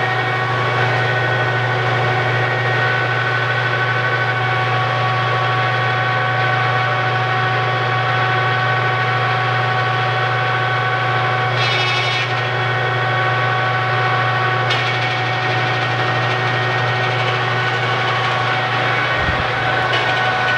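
Kearney & Trecker 205-SA horizontal milling machine running under power: a steady low hum from its drive with a constant gear whine above it. A brief rattle comes about halfway through, a click shortly after, and a low thump near the end.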